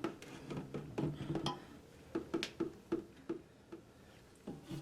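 Scattered light clicks and taps of hands and a tool working at the plastic water supply fittings under a toilet tank, unevenly spaced and fading out near the end.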